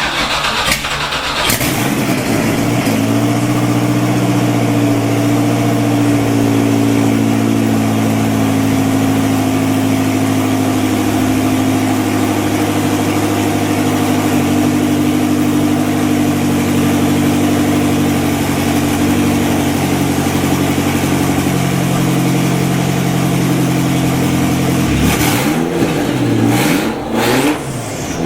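2001 Lotus Esprit's 3.5-litre twin-turbo V8 on a cold start: it fires up in the first second or two and settles into a steady idle. Near the end it is revved several times in quick blips.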